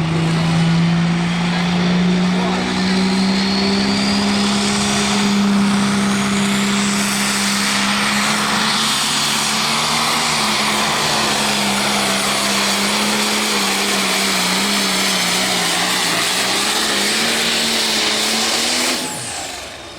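Outlaw pro stock pulling tractor's turbocharged diesel engine running flat out under load, with a high turbo whistle rising over the first several seconds. The engine note wavers late on, then drops away suddenly about a second before the end.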